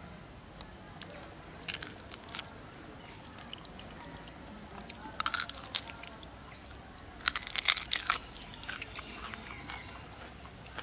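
A person biting and chewing raw duck, with sharp crunches in three clusters, the loudest about seven to eight seconds in.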